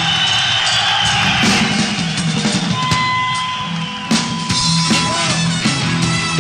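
Rock band playing an instrumental passage, led by the drum kit and bass, with a single high note held for about two seconds in the middle.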